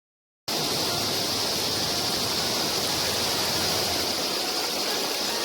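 Steady rushing of a creek or waterfall. It cuts in suddenly about half a second in, after silence.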